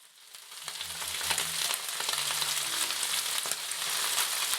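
Pork and red bell pepper sizzling and crackling in a hot stir-fry pan just after oyster sauce goes in, the sizzle swelling about half a second in and holding steady.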